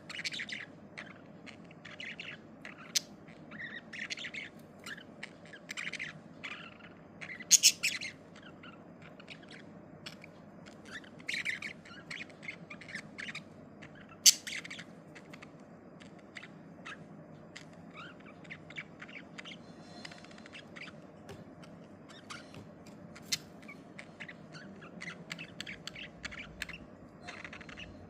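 Budgies chirping and squawking in short, irregular calls, with a few louder squawks, over a faint steady background noise.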